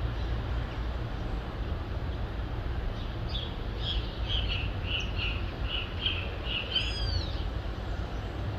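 A bird calling a run of about eight short, evenly spaced notes, followed by a single higher arching whistle, over a steady low rumble of city noise.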